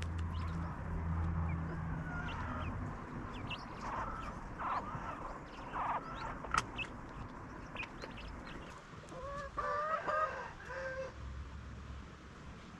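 Chickens clucking, with short calls scattered through and a longer run of calls about ten seconds in. A low hum runs under the first two seconds.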